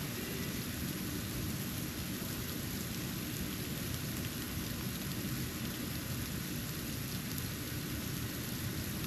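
Snow falling outdoors: a steady hiss with faint scattered ticks of flakes landing, over a constant low rumble.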